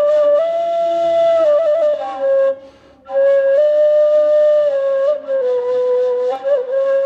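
Ney, the Turkish end-blown reed flute, playing a slow solo melody of long held notes. It breaks off for a breath about two and a half seconds in, then resumes.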